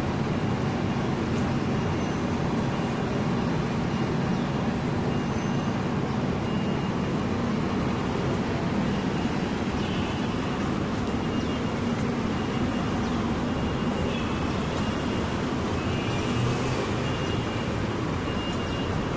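Steady city road traffic noise, an even rumble of passing vehicles, with a faint high thin tone that comes and goes.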